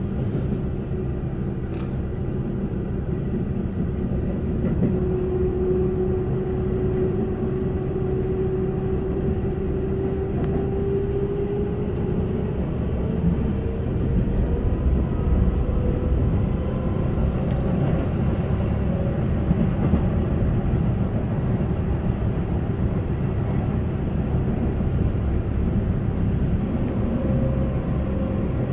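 Keihan 8000 series electric train running, heard from inside the passenger car: a steady rumble of wheels on rail, with a faint whine that rises slowly in pitch through the middle and then holds steady.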